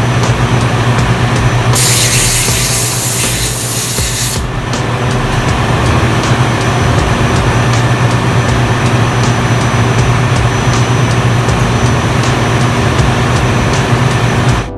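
Ship's diesel engine running steadily in the engine room: a loud, even drone with a low hum and faint regular ticking. About two seconds in, a hiss like air or spray sounds over it for about three seconds.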